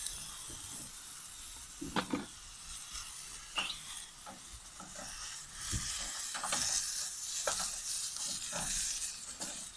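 Mushrooms sizzling as they fry in oil in a pot, stirred with a utensil that knocks against the pot now and then.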